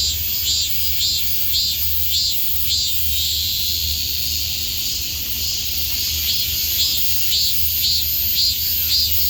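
Several cicadas calling together. One call pulses about twice a second, drops out for a few seconds in the middle while the others keep up a steady high buzz, then starts pulsing again.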